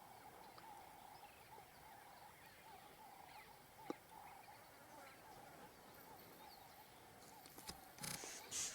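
Faint, steady chorus of many small bird calls chirping together, with a single click about four seconds in and a few louder noisy bursts near the end.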